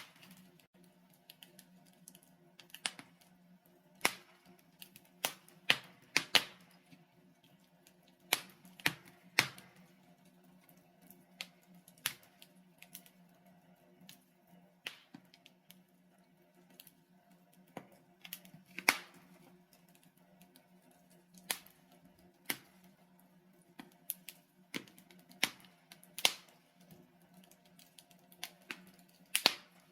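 Logs burning in a fireplace, crackling with irregular sharp pops and snaps, sometimes several in quick succession, over a faint steady low hum.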